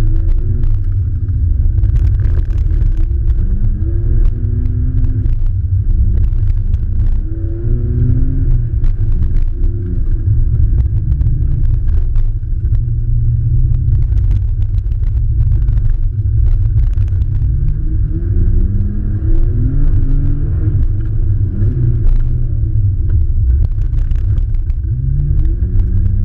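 Car engine driven hard, revving up and dropping back over and over as it works through a course, over a heavy muffled rumble, with scattered short knocks.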